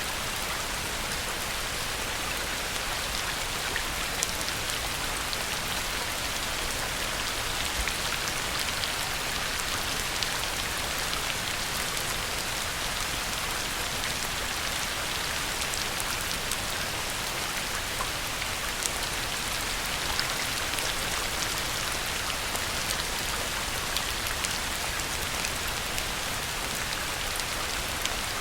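Heavy rain pouring onto a pond, a steady dense hiss with individual drops ticking and pattering on the water and nearby surfaces.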